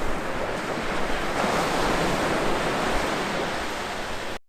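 Ocean surf washing steadily, with wind buffeting the microphone; it cuts off suddenly just before the end.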